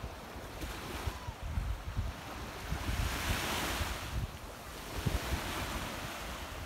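Black Sea surf washing onto the shore, one wave swelling and breaking about three seconds in, with wind buffeting the microphone in low rumbling gusts.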